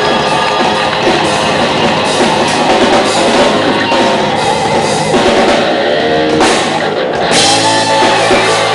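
Live rock band playing loudly, with a pounding drum kit and distorted electric guitars; about seven seconds in the playing breaks off briefly and a sustained chord rings out.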